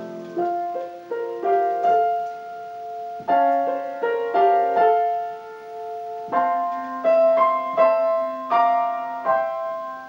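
Piano playing a solo interlude between sung verses: chords struck every half second to a second, each ringing and fading.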